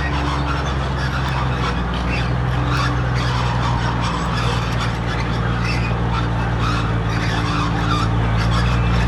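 Heavy diesel earthmoving machine running steadily, with a continuous scraping, rasping metal noise and small clanks over the engine hum, as of a bulldozer's tracks and blade working earth.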